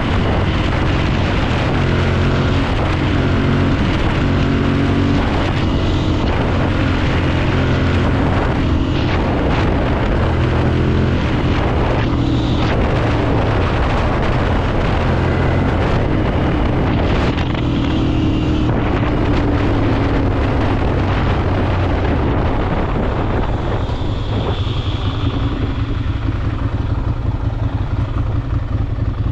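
Ducati Monster 796's air-cooled L-twin engine running under way, with wind noise on the microphone. Near the end the engine note drops and turns into an uneven, pulsing beat as the bike slows toward idle.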